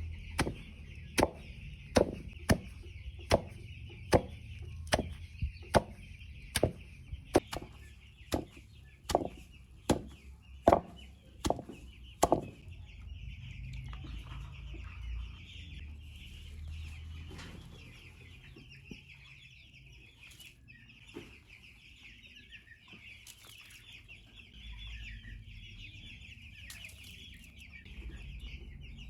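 A flock of chicks a little over two weeks old cheeping steadily all together. Sharp knocks come about once a second through the first half and then stop.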